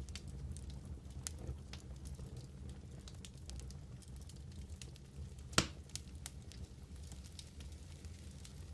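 Wood fire burning in a fireplace: a steady low rumble of flames with scattered small crackles, and one loud sharp pop a little past halfway.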